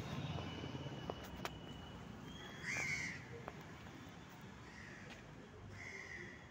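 A bird calling outdoors: one louder call just under three seconds in, then two fainter calls near the end, over a low outdoor rumble.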